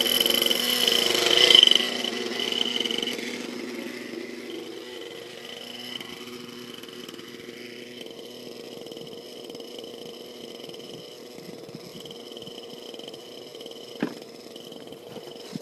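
Hyper 55 nitro glow engine idling steadily just after a cold start. It runs louder for the first two seconds, then settles to a lower, even idle. A single sharp click comes near the end.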